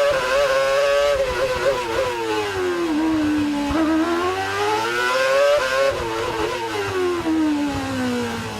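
V8 Formula One engine at high revs, its pitch falling for about three seconds as the car slows, rising again as it accelerates, then falling once more and starting to climb near the end.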